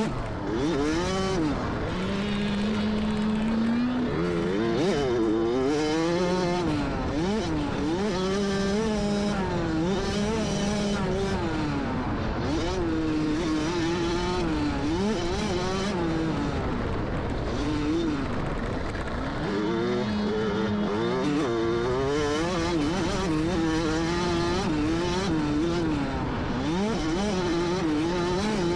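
Dirt bike engine revving up and down as it goes around a motocross track: the pitch climbs and drops every second or two as the throttle opens and closes, with short stretches held steady.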